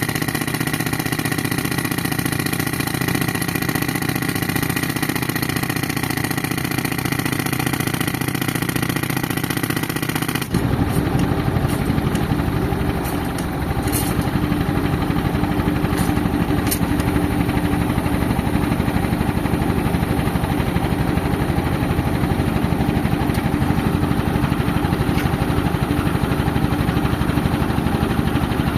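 Tractor engine running steadily while driving an air compressor. About ten seconds in, the sound changes abruptly to a lower, denser running sound with a few sharp clicks.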